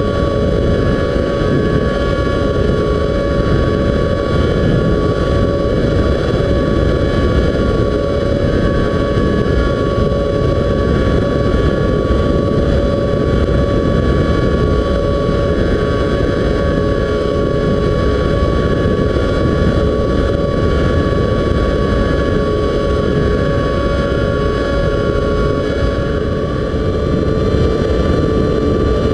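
Radio-controlled model plane's motor and propeller running with a steady whine at constant throttle, heard close up over low wind rumble on the microphone, with the pitch rising slightly near the end.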